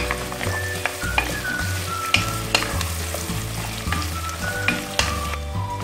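Sliced onions and whole spices sizzling in hot oil in a ceramic-coated pot, stirred with a wooden spoon that clicks and knocks against the pot again and again. Background music plays under it.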